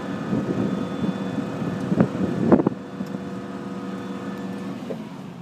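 Steady engine and hydraulic hum of a fire department aerial ladder truck at work, with wind buffeting the microphone. Two sharp knocks come about two seconds in, after which the wind noise eases slightly.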